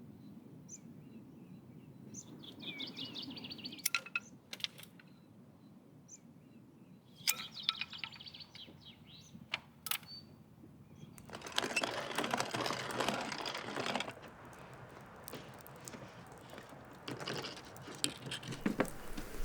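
Branches and twigs being gathered by hand: scattered sharp snaps and clicks, with a louder spell of rustling and crackling from about 11 to 14 seconds and again near the end.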